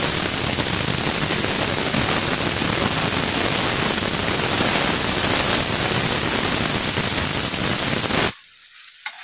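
Wet ground masala of onion, tomato, ginger and garlic sizzling hard in hot oil: a loud, even hiss that cuts off suddenly near the end.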